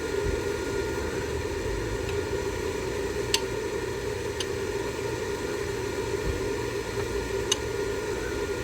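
A steady hiss and hum, with a few sharp, separate metallic clicks from hand tools on the truck's alternator mounting as it is unbolted.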